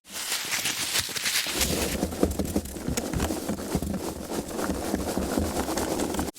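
Foam packaging being handled: dense crackling and rubbing full of small clicks, with heavier low thuds joining about a second and a half in.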